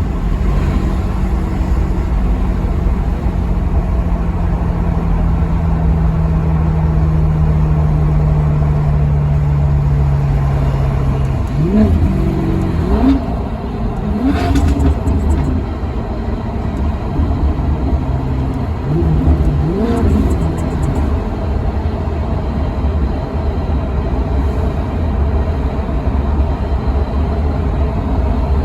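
Maserati Quattroporte V8 engine under way, holding a steady note that slowly sinks, then revving up and down in several quick rises and falls about halfway through, as in throttle blips on downshifts. A further short rise and fall follows a few seconds later over a steady low road rumble.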